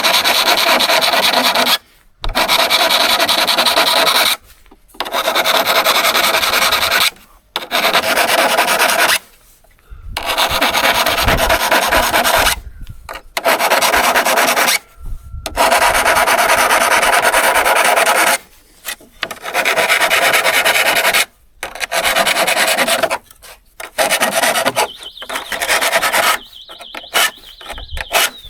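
Steady abrasive scraping on a steel hand-saw blade, in stretches of a few seconds that cut off abruptly. Near the end the strokes come shorter, with a thin ringing tone.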